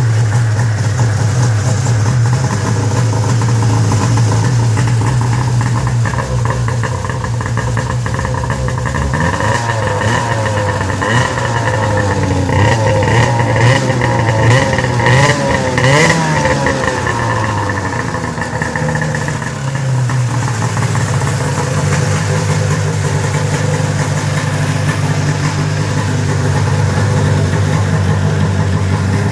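1995 Arctic Cat Cougar 550 snowmobile's two-stroke engine running, its revs wavering up and down in the middle and then settling to a steady idle. The owner says it runs a little boggy and needs a carb cleaning.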